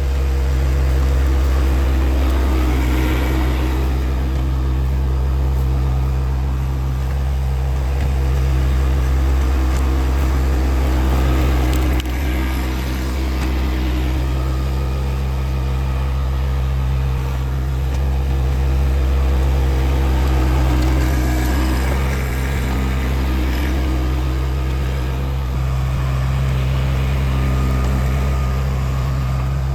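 Tractor engine running steadily under load, its pitch holding even with small swells in level.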